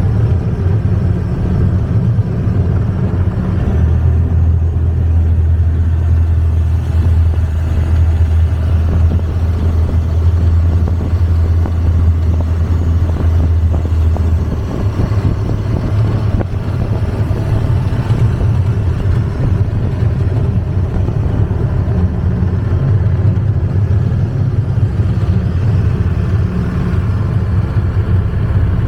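Long-tail boat's engine running under way, a loud steady low drone that shifts in pitch about four seconds in and again about fifteen seconds in.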